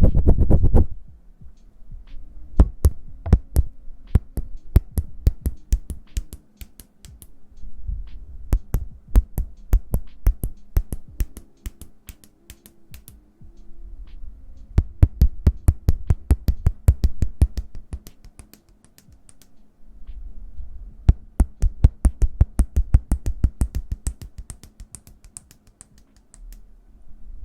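ASMR hand sounds close to the microphone: quick, uneven runs of sharp finger clicks and taps, with stretches of low rubbing rumble from the hands.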